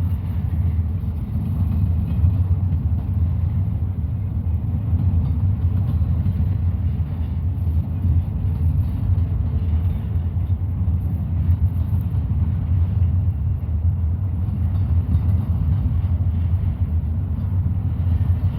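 Intermodal stack train's well cars rolling past at a steady speed: a continuous low rumble of steel wheels on the rails.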